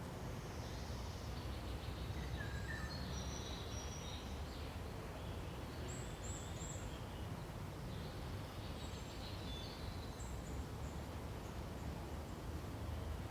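Forest ambience: several small birds chirping and calling in short, high phrases scattered throughout, over a steady low rumble.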